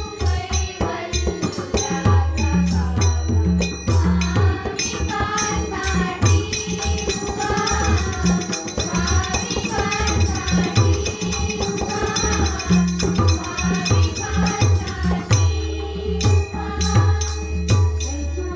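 Marathi devotional bhajan music: a steady drum beat with jingling hand percussion, and a melody line that comes in about five seconds in and drops out about fifteen seconds in.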